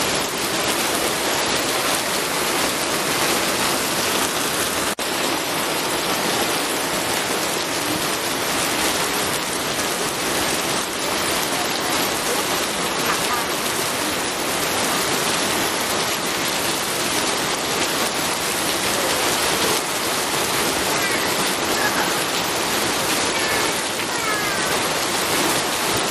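Steady heavy rain falling, an even hiss with no thunder, with a momentary dip in level about five seconds in.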